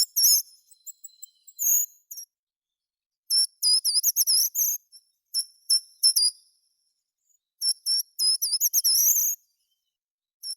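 A songbird singing: quick runs of very high, repeated whistled notes in short phrases, with pauses of about a second between them.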